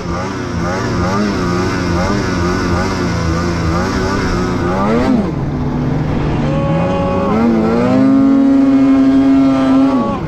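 Snowmobile engine running under varying throttle, its pitch rising and falling for the first half. It drops about halfway through, then climbs and holds at high revs before easing off at the end.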